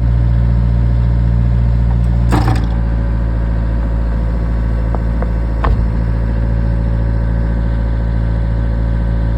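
Excavator engine running steadily at a constant speed. Two sharp knocks stand out, about two and a half seconds in and again near six seconds.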